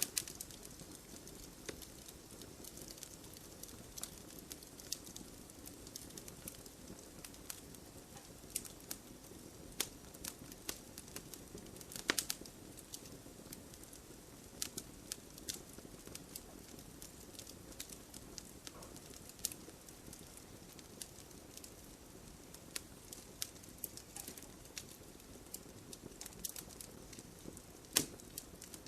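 Wood campfire crackling, with irregular sharp pops and snaps over a soft low hiss of flames; two louder pops stand out, one near the middle and one near the end.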